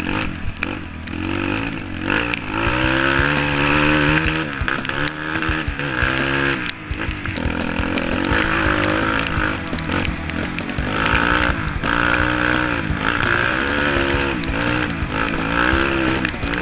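Motor engines revving, the pitch rising and falling over and over, with more than one engine running at once.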